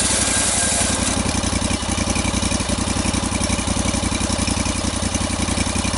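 An engine idling with an even, rapid pulse. A higher hiss on top of it drops away about a second in.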